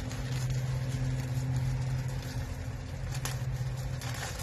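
Steady low hum of an idling diesel truck engine, heard from inside the cab, with faint crinkling of plastic from the air filter being handled about three and four seconds in.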